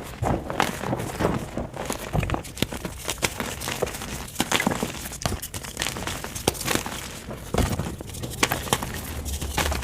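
Blocks of white gym chalk being crushed by hand, a steady run of soft, irregular crunches and crackles.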